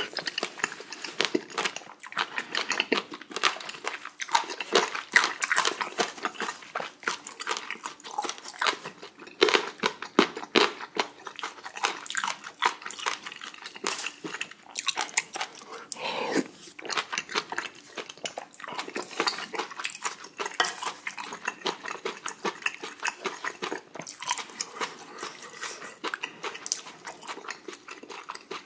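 Close-miked mouth sounds of a man eating spicy beef small intestine hot pot: chewing and lip smacking, a dense run of sharp wet clicks.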